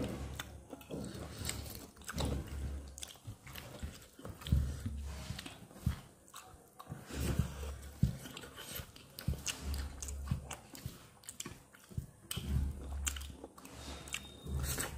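A person eating close to the microphone: chewing and biting with irregular wet mouth clicks and small crunches.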